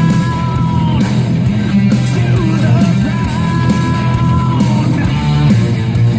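Loud rock music: a shouted, sung vocal holding long notes over guitars and a heavy low end.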